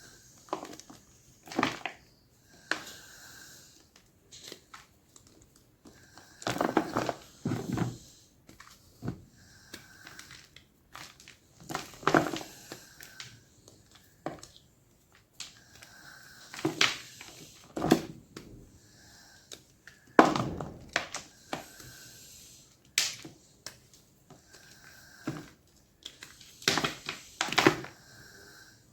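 Blocks of gym chalk being crushed, giving short, crisp crunches at irregular intervals, roughly one every second or two, some in quick clusters of two or three.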